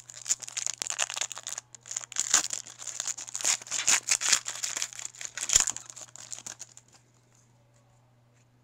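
Foil wrapper of a 2012 Topps Chrome baseball card pack being torn open and crinkled, a dense crackling that stops about seven seconds in.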